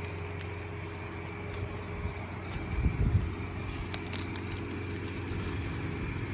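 Steady low mechanical hum, like a motor running at idle, with a few dull knocks about three seconds in.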